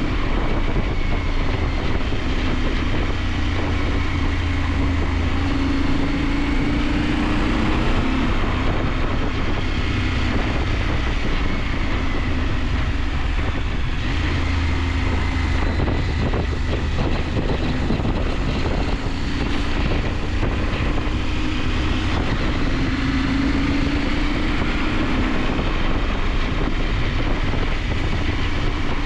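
KTM 890 Adventure parallel-twin engine running under way, its pitch rising and falling gently over several seconds as the throttle changes, with steady wind and road noise.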